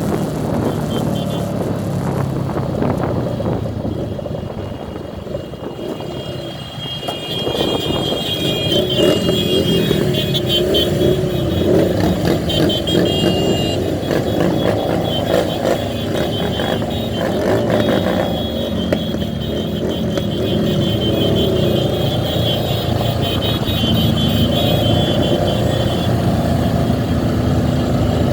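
Motorcycle engines and traffic running steadily on a group ride, easing off briefly about five seconds in and then picking up again.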